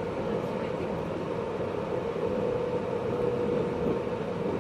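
Steady hum and rumble inside a JR East 583-series electric train car (MoHaNe 582), with a faint steady tone running through it.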